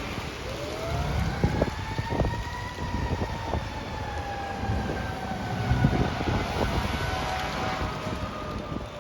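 Fire engine siren rising in pitch over about two seconds, then falling slowly for the rest, over a low rumble and wind on the microphone.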